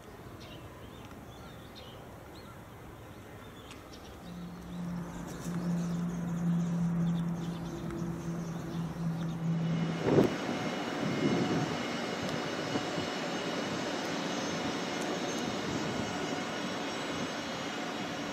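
Quiet outdoor ambience with a steady low hum for several seconds, then, about ten seconds in, a JR 500 series Shinkansen train pulling slowly into a station platform: a steady, fairly loud whir of motors and running gear with several held tones.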